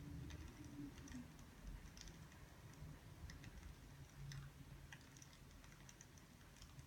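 Faint, irregular small clicks and ticks, a few a second, over a low steady hum.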